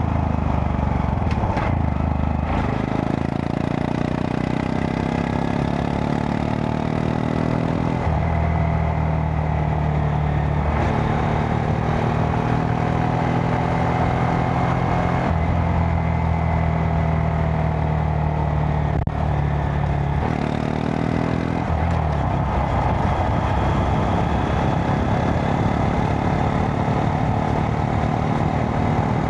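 Honda Monkey 125's single-cylinder four-stroke engine running under way. Its note climbs in pitch and drops back several times as the throttle is opened and eased.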